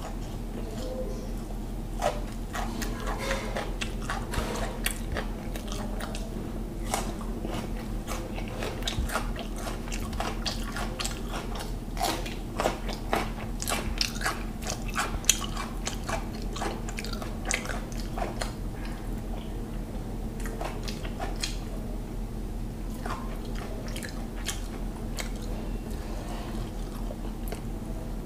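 Close-miked chewing of mouthfuls of mutton biryani eaten by hand: many short clicks and smacks, thickest in the first half and sparser later, over a steady low hum.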